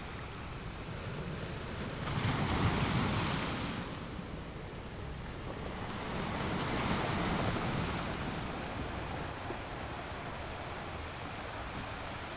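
Ocean surf: a steady wash of water with two waves breaking and surging louder, one about two seconds in and another about six seconds in.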